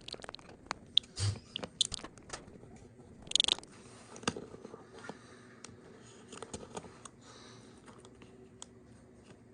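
Small plastic clicks, taps and a brief scrape from a refillable slide-nozzle gas lighter being handled at close range, with scattered sharp clicks and one louder scraping rustle about three and a half seconds in.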